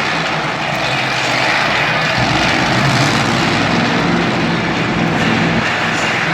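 Monster truck engine running hard at high revs, a loud, dense engine noise filling the arena, with its low engine note growing stronger about two seconds in.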